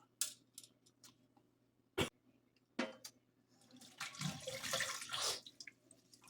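Close-miked wet eating sounds from seafood in butter sauce: a few sharp smacking clicks, then a longer wet stretch of chewing and slurping about four seconds in.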